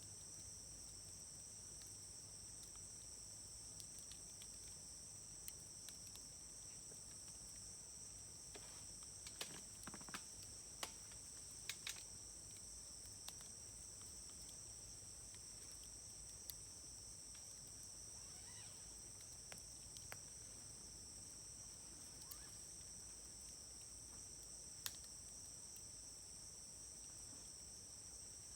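Wood fire crackling with scattered sharp pops, several in quick succession about a third of the way in. Insects chirr steadily and high throughout.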